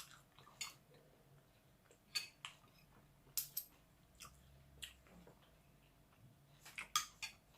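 Eating sounds: faint, scattered short clicks and smacks from chewing bony fish in sinigang soup, with a small cluster of clicks near the end.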